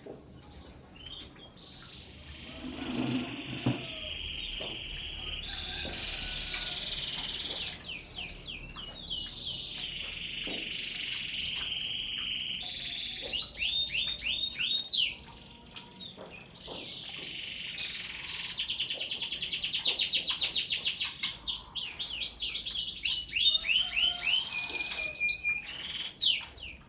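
Several domestic canaries singing together, long warbled phrases with fast trills and quick rising sweeps overlapping one another. The song swells and is busiest in the second half.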